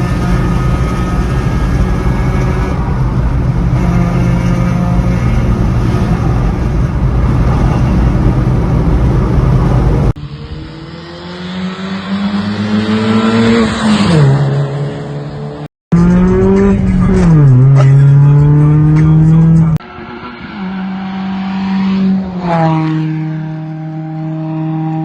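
Honda Civic EP2's four-cylinder engine. For about ten seconds it holds a steady pitch under heavy rushing noise. Then, over several short cuts, it revs up and the pitch drops sharply each time, as with gear changes under acceleration, before settling to a steady drone.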